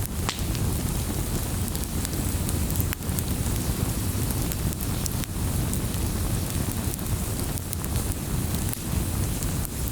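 Wood fire in a fireplace crackling: a steady low rush of burning with many scattered sharp pops and snaps, one of the loudest just after the start.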